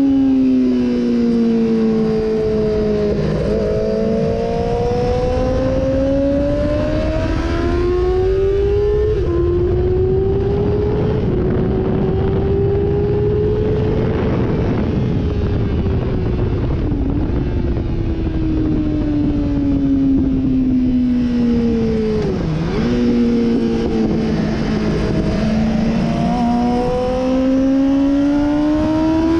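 Sportbike engine heard from on board at track speed, its pitch falling and climbing again over and over through the corners, with quick breaks in the pitch at gear changes. Steady wind rush runs underneath.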